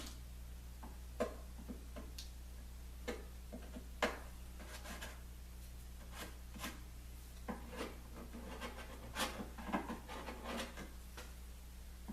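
Scraping and rubbing on the glued edge of a plywood lamination, with scattered light knocks of a tool against the wood: wet glue squeeze-out being cleaned off.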